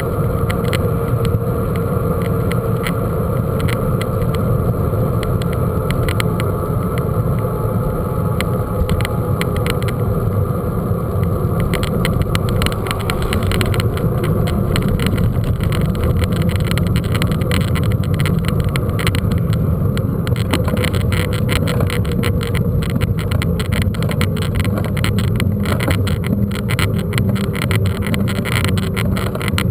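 Mountain bike being ridden: a steady rumble of wind on the microphone and ground noise, with dense rattling clicks from the bike over rough ground that grow busier about halfway through.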